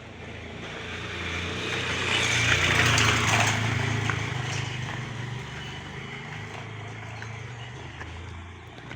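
A motor vehicle driving past: engine hum and tyre noise swell to a peak about three seconds in and then fade away.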